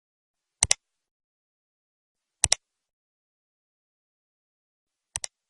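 Three sharp double clicks, each a quick pair of clicks, about two seconds apart, in otherwise complete silence.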